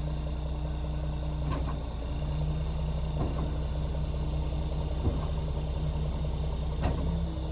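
Diesel truck engine running steadily with a low, even hum, with a few light knocks.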